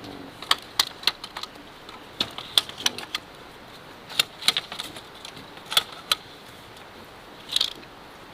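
Irregular sharp knocks and clicks of bamboo being worked by hand for a fence, some close together, a few seconds apart elsewhere.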